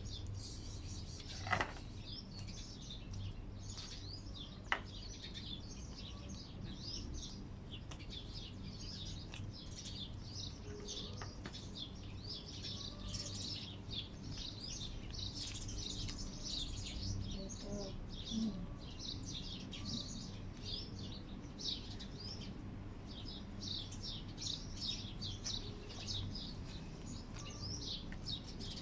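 Many small birds chirping continuously, over a steady low hum.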